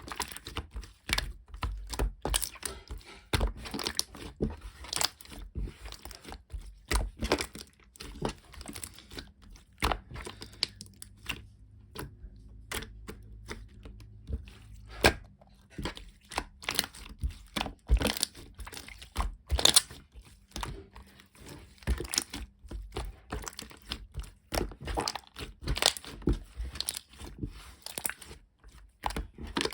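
Irregular crinkling, crackling and clicking handling noises, as of something being crumpled or torn, with a quieter stretch partway through.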